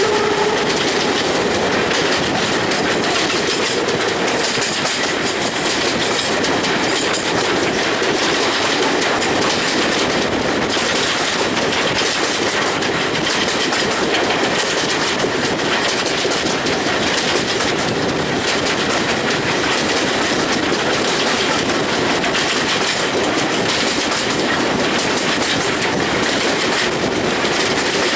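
Steam-hauled passenger train, GWR Hall class No. 6988 Swithland Hall and its coaches, running along the line: a steady rumble of wheels on rails with clickety-clack.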